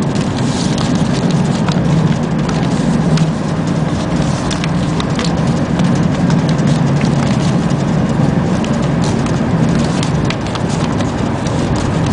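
Inside a moving CP Intercidades passenger carriage: the steady low rumble of wheels running on the rails, with scattered clicks and rattles over it.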